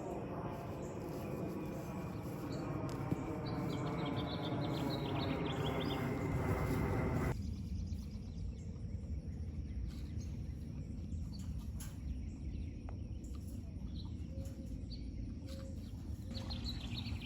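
Small birds chirping, over a steady humming drone that slowly grows louder and cuts off abruptly about seven seconds in. Afterwards a low background hum remains, with a few more chirps near the end.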